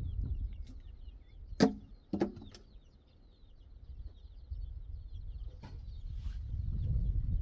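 Small birds chirping continuously over a low rumble, with two sharp knocks about half a second apart a little over a second in and a fainter knock later.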